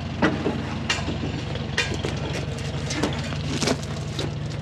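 Combine engine idling steadily, with several sharp metal clanks and clicks from work on the header hookup.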